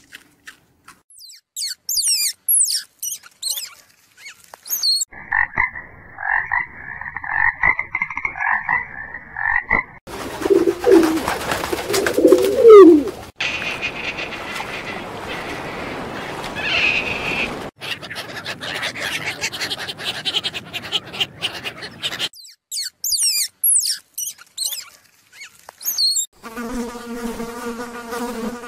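A run of animal sound clips in which frogs croaking stand out, broken by high chirping calls; near the end a steady buzz of a flying insect comes in.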